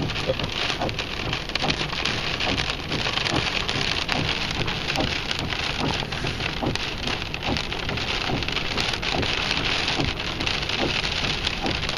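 Storm rain and wind-blown spray pattering hard during a windstorm: a steady dense hiss full of small taps.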